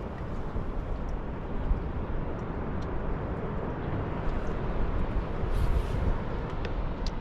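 Steady rumble and rush of an outboard-powered fishing boat under way, with wind buffeting the microphone.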